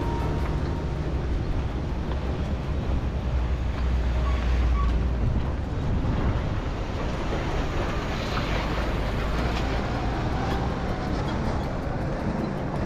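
A vehicle travelling along a road: a steady low rumble of engine and road noise.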